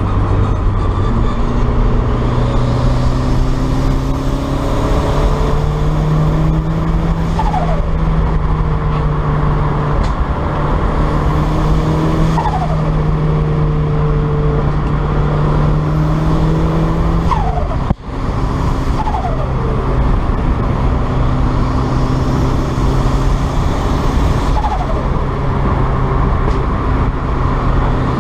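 Turbocharged 1990 Mazda MX-5 1.6 four-cylinder running under way, its note steady between shifts in revs, with a faint high whine rising and falling several times. There is a brief drop in sound about two-thirds of the way through.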